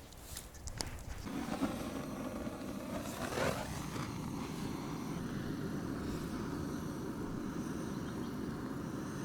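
A few quick clicks, then a portable gas burner on a canister catching and burning with a steady rushing sound.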